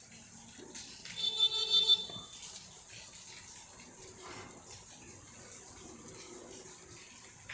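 Steady rain falling, a faint even hiss. About a second in, a short loud high-pitched sound with a pulsing quality cuts through it for under a second.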